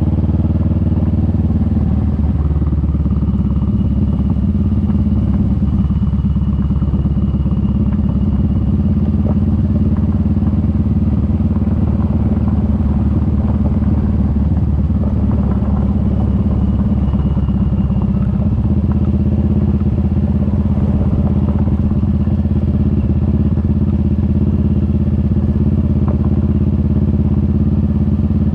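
Kawasaki Vulcan S 650's parallel-twin engine running steadily, its note shifting slightly in pitch a couple of times.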